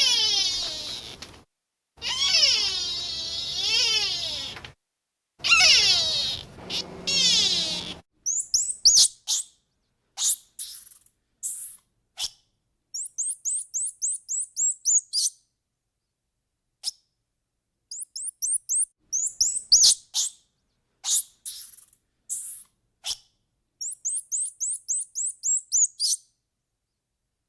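Three long, high-pitched, wavering animal calls, each two to three seconds, in the first eight seconds. Then a small bird chirping: quick runs of short, very high, downward-sliding chirps in bursts, with brief gaps between.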